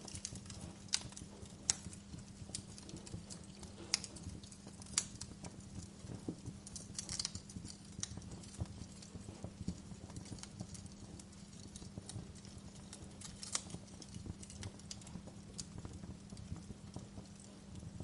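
Fireplace fire crackling, with irregular sharp pops over a low steady hum.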